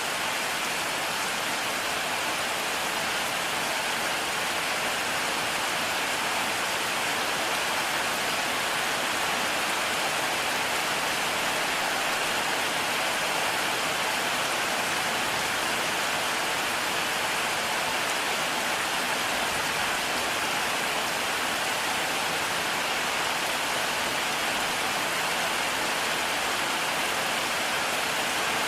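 Heavy rain falling steadily, a constant dense hiss of rain on surfaces with no thunder.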